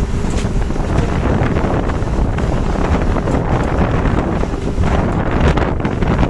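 Heavy wind buffeting the microphone: a loud, steady rumble with irregular gusty blasts.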